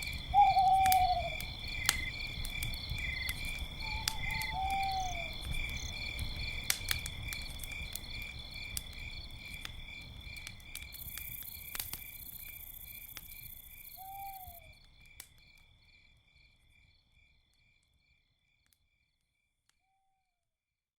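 Campfire crackling under a steady, pulsing chorus of crickets, with an owl hooting a few times in falling hoots. Everything fades out to silence near the end.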